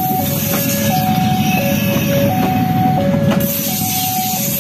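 Passenger train coaches rolling past with a steady rumble of wheels on rail and a few sharp clacks over rail joints. Over it a level-crossing warning alarm sounds, alternating a high tone and a low tone, each about three-quarters of a second long.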